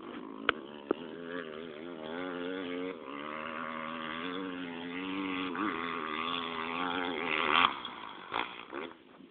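Motocross motorcycle engine running on the track, its pitch rising and falling with the throttle, growing louder to a peak about three-quarters of the way in and then fading away. Two sharp clicks sound near the start.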